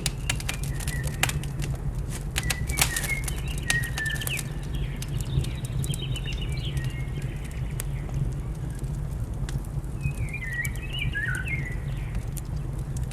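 Wood fire crackling with scattered sharp pops over a steady low rumble. Small birds chirp in short warbling phrases, several near the start, again around five to seven seconds in, and once more at about ten seconds.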